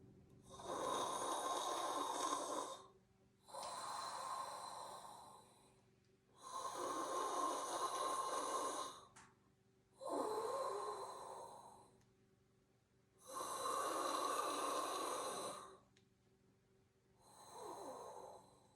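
A person breathing slowly and deeply through the nose and mouth: about six long, audible breaths of two to three seconds each, with short pauses between them, a few carrying a slight voiced sigh.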